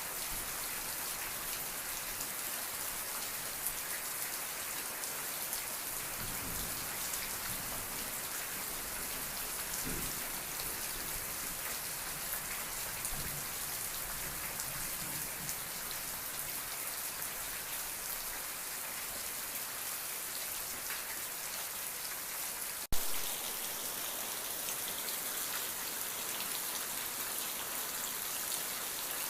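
Steady rain falling and pattering on a surface, an even hiss. A single sharp click cuts through it about three quarters of the way in.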